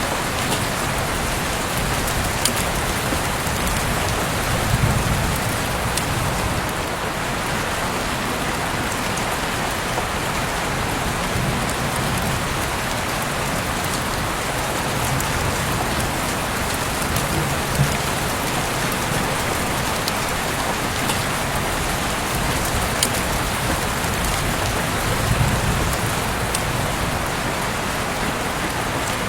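Heavy rain falling steadily, a dense hiss with sharp drop ticks scattered through it and a few brief low swells.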